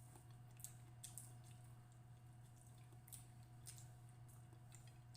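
Faint eating sounds: scattered soft wet clicks and smacks of chewing, over a steady low hum.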